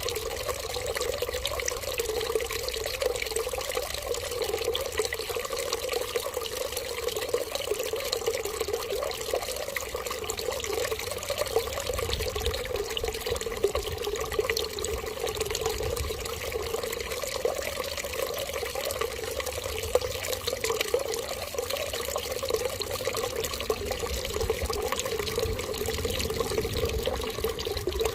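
Water running in a steady, unbroken trickling stream.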